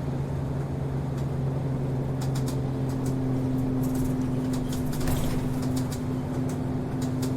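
Inside a city route bus as it runs: a steady engine and drivetrain drone with a low hum, a second, higher hum line firming up about a second in, and scattered light rattles and clicks from the cabin fittings.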